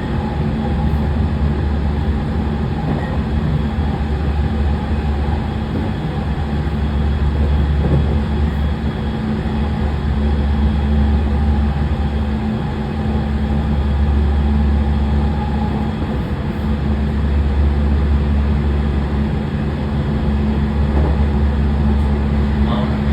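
Running noise of a JR West 207 series EMU heard inside its motor car, which carries a Toshiba IGBT VVVF inverter. A steady rumble of wheels on rail and traction motors, with faint steady tones above it.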